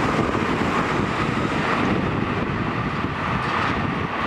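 Seibu 20000-series electric train running past at close range, a steady rumble of wheels on rail, with wind buffeting the microphone.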